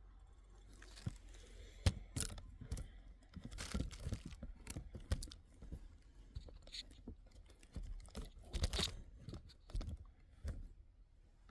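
Irregular crunching, crinkling and clicking close to the microphone, starting about a second in and dying away near the end.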